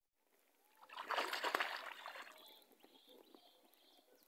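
A hooked bass thrashing at the water's surface during the fight: a burst of splashing about a second in that lasts about a second and then dies away.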